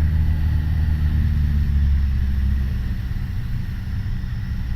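Piper Warrior's four-cylinder Lycoming engine and propeller droning steadily, heard from inside the cockpit in cruise flight.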